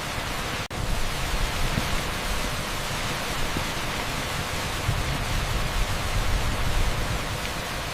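Torrential rain on an asphalt street, heard as a dense, steady hiss across the whole range, like pink noise. The sound cuts out for an instant under a second in.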